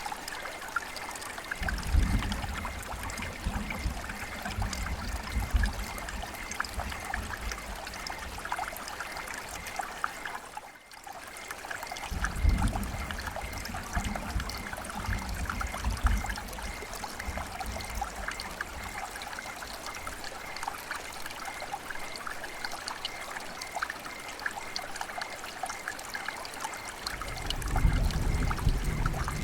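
River water flowing and trickling over stones, with a constant splashing and bubbling. Stretches of low rumble come and go three times.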